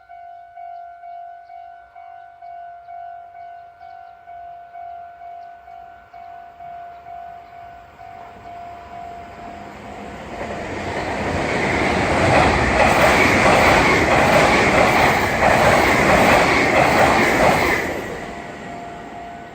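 Japanese railroad-crossing warning bell ringing "kan-kan" at about two strokes a second, then a Meitetsu μSKY electric train passes over the crossing from about ten seconds in, loud for several seconds with its wheels clicking over the rail joints, before it fades and the bell is heard again near the end.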